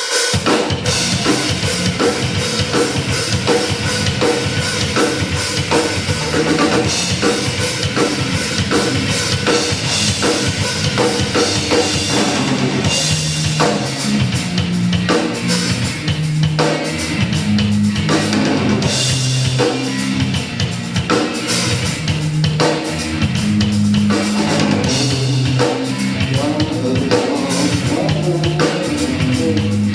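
Rock band playing live, an instrumental passage with drum kit, bass drum and guitar and no vocals. A low bass line moves in steady held notes through the second half.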